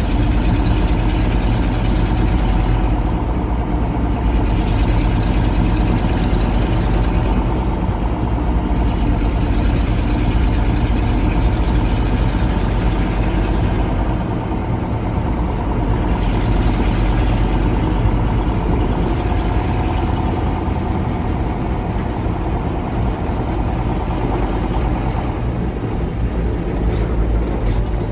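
KAMAZ 4310 6x6 truck's V8 diesel engine running steadily as the truck drives off-road, a dense low drone with a hiss above it that rises and falls every few seconds.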